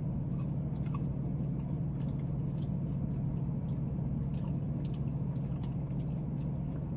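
Close-up chewing of sauced fries and fried chicken, with many small wet mouth clicks and smacks at irregular intervals, over a steady low hum.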